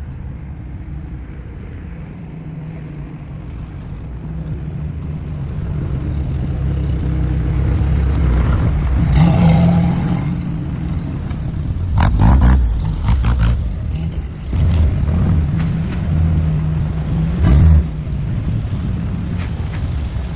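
Jeep engine running as the vehicle drives off-road: a steady low hum that grows louder over the first several seconds, with uneven surges and knocks in the second half.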